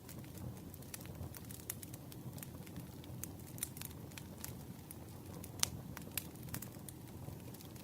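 Campfire crackling: a steady low rumble from the burning fire with frequent sharp, irregular pops and snaps from the wood, one louder pop a little past the middle.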